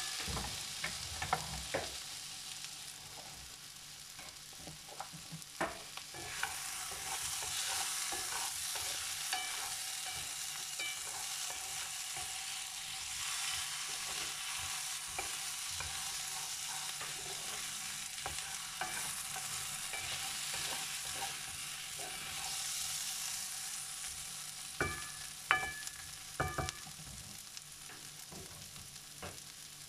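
Sliced potatoes, carrots and onion sizzling steadily in a frying pan while being stirred. A utensil clacks against the pan a few times just after the start and in a short cluster near the end.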